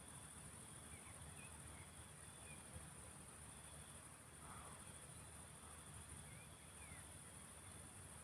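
Faint field ambience: a steady high-pitched insect trill, like crickets, with a few soft bird chirps and a low background rumble.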